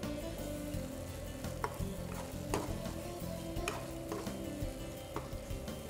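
Mutton pieces sizzling as they fry in tomato masala in a nonstick kadai, stirred with a steel ladle that scrapes the pan and clinks against it a few times.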